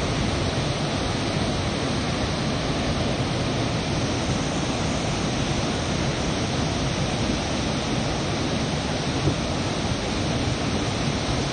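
Floodwater pouring through the opened gates of a hydroelectric dam, a loud, steady rush of water released because of high water levels.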